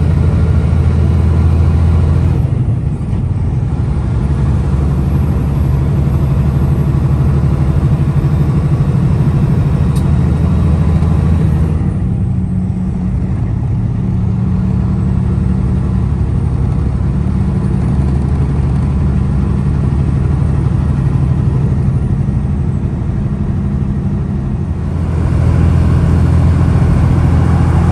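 Semi-truck engine running steadily under way, heard from inside the cab as a low drone. Its note shifts a few times: about two and a half seconds in, near the middle, and again near the end, where it grows louder.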